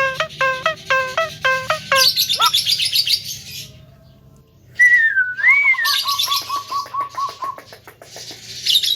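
Male Javan myna (jalak kebo) singing: a run of evenly repeated notes about two a second, then fast high chatter. After a short pause about four seconds in comes a rising-and-falling whistle, then a quick string of even whistled notes and more chatter.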